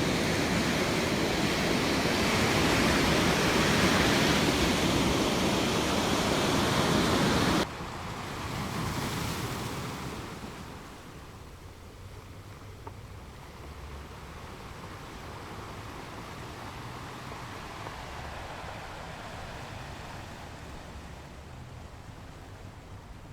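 Ocean waves washing onto a beach, loud and steady, cutting off abruptly about eight seconds in to a much quieter, softer wash of surf.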